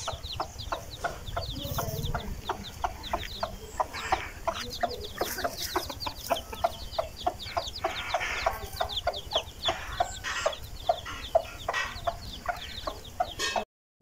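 Birds calling in a rapid run of short notes, about three a second, with high chirps that fall in pitch. The sound breaks off abruptly near the end.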